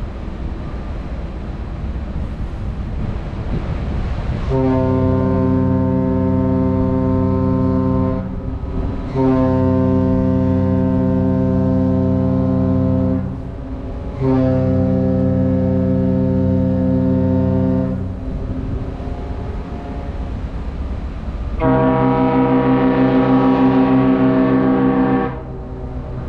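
Ship's horn sounding three long blasts of about four seconds each, answered near the end by a horn of different pitch from the other ship, as the two coastal passenger ships greet each other in passing. Wind noise underneath.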